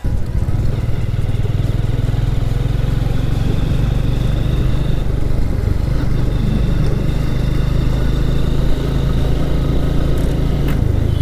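TVS Victor motorcycle's single-cylinder four-stroke engine running steadily under way on the road.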